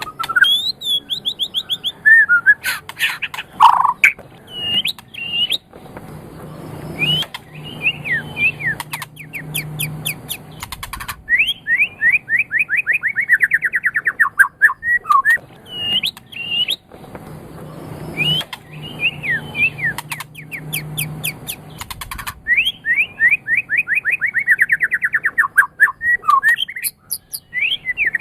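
White-rumped shama (murai batu) singing a loud, varied song. It mixes slurred whistles, fast runs of repeated rising notes and short high rattles, in phrases broken by brief pauses.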